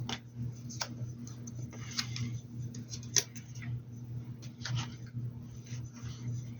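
Small rubbing, scratching and tapping handling sounds of hand work at a table, with one sharp click about three seconds in, over a steady low hum.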